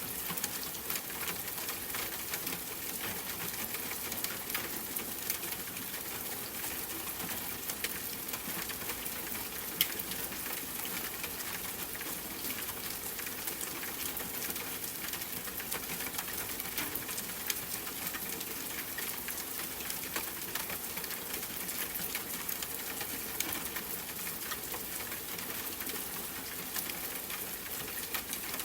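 Steady rain falling, a dense patter of drops ticking on a surface, with one sharper drop about ten seconds in.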